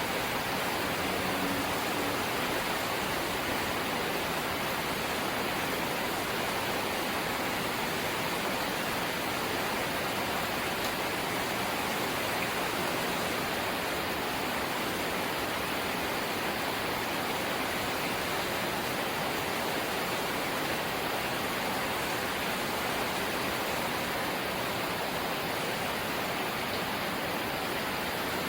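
Rain falling steadily on a corrugated zinc (sheet-metal) house roof: a dense, even hiss with no breaks or changes.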